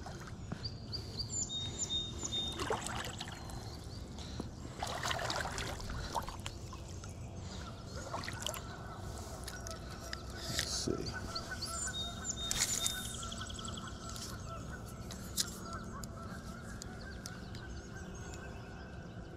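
Birds calling over a steady low background noise.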